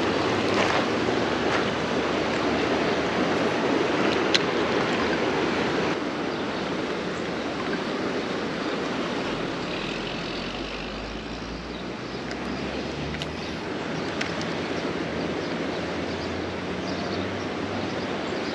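Steady rush of flowing river water, with a single sharp click about four seconds in.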